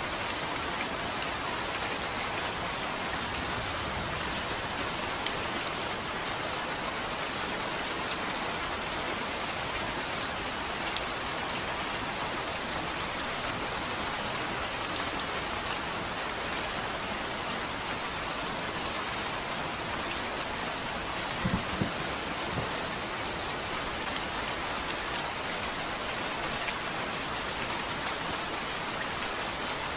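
Steady rain falling, with individual raindrops ticking on a surface. About two-thirds of the way through, a brief low thump.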